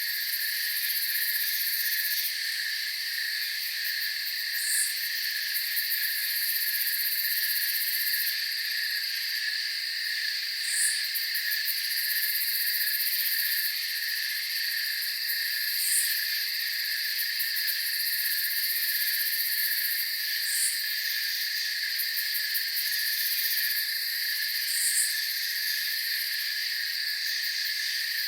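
Night chorus of crickets and other insects: steady, overlapping high trilling at several pitches, with a brief higher chirp standing out about every five seconds.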